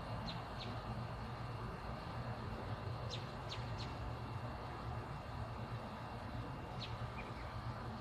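Birds chirping outdoors: short high chirps in a few small clusters over a steady low hum.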